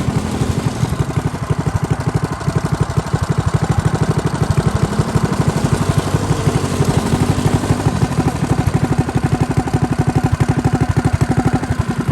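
Small mini bike engine running steadily at low speed, with an even, rapid chugging pulse.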